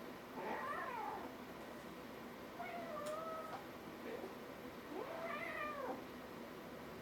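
Kitten meowing three times, each call about a second long, the first and last rising then falling in pitch.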